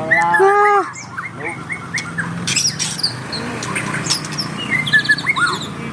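White-rumped shama singing in full voice: a rapid, varied string of whistles, chirps and clicks, with a buzzy trill about four and a half seconds in.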